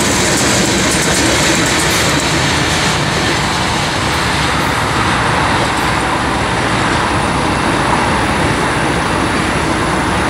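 Covered hopper cars of a freight train rolling past close by, their wheels clacking over the rail joints for the first few seconds. After the last car has gone by, a steady rushing noise carries on.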